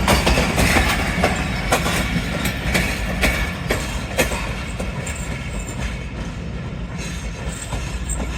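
Train running on the track: a steady low rumble with the wheels clacking over rail joints. The clacks thin out after about four seconds.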